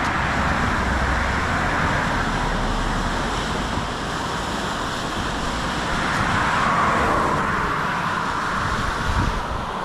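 Kenduskeag Stream running high and roaring: a steady rush of fast water, swelling slightly a little past the middle.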